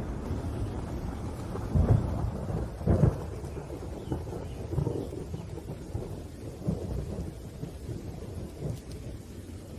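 Thunder rumbling over steady rain, with two loud booms about two and three seconds in, then lighter rumbles dying away.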